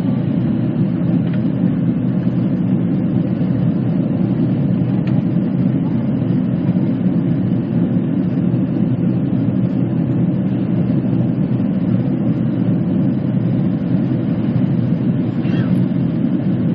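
Steady low rumble of a jet airliner's engines and airflow heard from inside the passenger cabin during takeoff.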